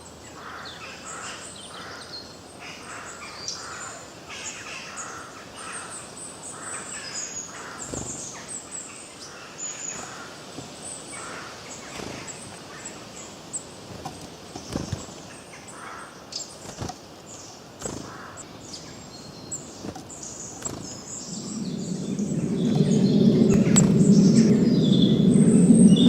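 Many wild birds chirping and singing in short, overlapping calls. About three-quarters of the way through, a louder low, steady sound swells in and becomes the loudest thing by the end.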